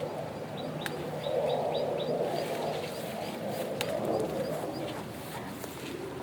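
A small bird chirping in quick series of short, high notes, about four a second, over a lower background sound, with a couple of sharp clicks.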